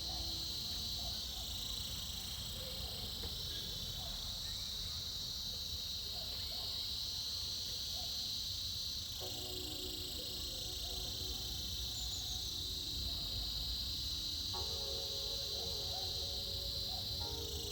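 A chorus of cicadas buzzing in a steady high drone that swells and eases every few seconds. Faint steady low tones join about halfway through and again near the end.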